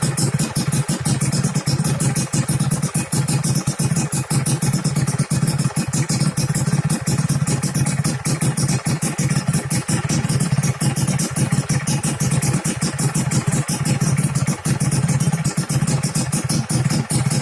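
Suzuki Satria 120 R two-stroke single-cylinder engine idling steadily through an AHM aftermarket exhaust, with a rapid, even beat of exhaust pulses.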